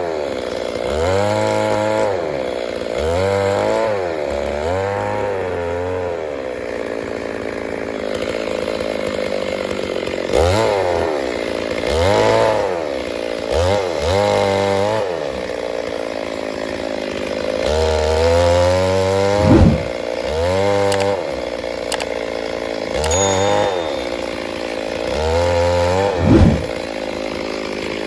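Stihl MS 382 two-stroke chainsaw engine revving up and down again and again in short bursts of a second or so, settling back between them.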